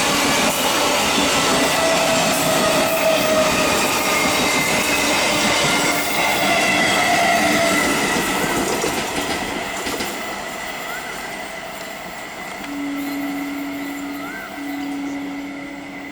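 An EMU electric local train running past on the rails, wheels squealing in several held tones over the rail noise, then fading away after about eight seconds. Near the end a steady low tone sounds twice.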